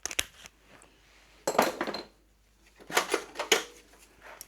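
Metal tools and parts clinking and clattering in three short bursts of clicks, as something thicker is fitted to jam the motorcycle's drive sprocket.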